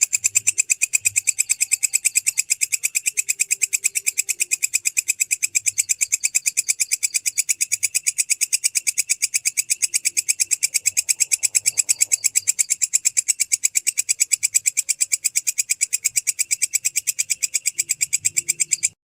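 Belalang (grasshopper-type insect) stridulating: a steady, rapid train of evenly spaced, high-pitched chirping pulses that cuts off suddenly near the end.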